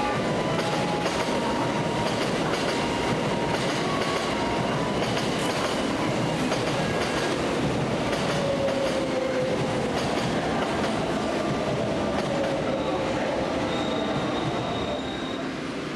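A train moving through the station, its wheels clicking over the rail joints, with a faint wavering whine over the running noise. The sound drops a little near the end.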